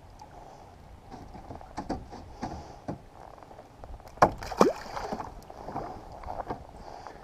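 Scattered knocks and clatter of gear being handled aboard a fishing kayak, over a low background of water and wind. About four seconds in come two sharp clacks and a short squeak that drops steeply in pitch.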